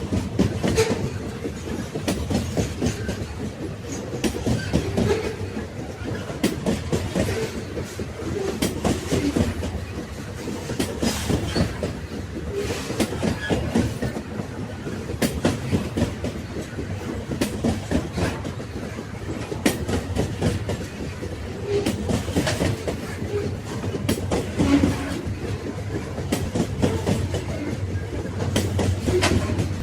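Railway wagons rolling over the rails: a continuous low rumble with irregular clickety-clack of the wheels over rail joints.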